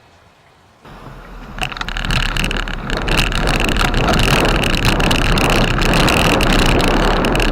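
Mountain bike being ridden on a wet snowy trail: rolling and rattling with rapid clicks and wind on the microphone. It starts about a second in and builds to a loud, steady level.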